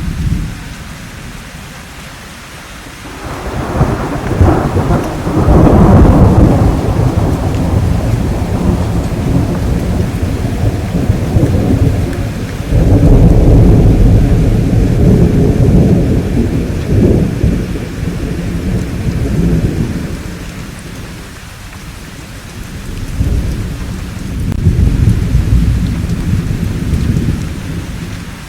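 Thunderstorm: steady rain with rolling thunder. A long peal builds about three seconds in and rumbles on for several seconds, a second deep roll follows past the middle, and a weaker rumble comes near the end.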